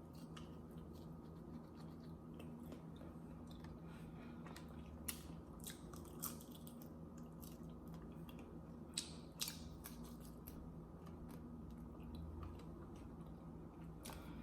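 Faint chewing and mouth sounds of someone eating, with a few short sharp clicks scattered through, over a low steady hum.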